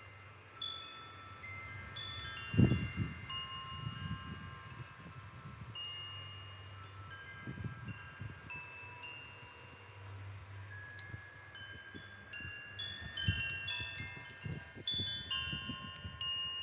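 Wind chimes ringing irregularly, many overlapping high metallic tones struck at random and fading away as they are blown by the wind. Low gusts of wind rumble on the microphone at intervals, the loudest about two and a half seconds in.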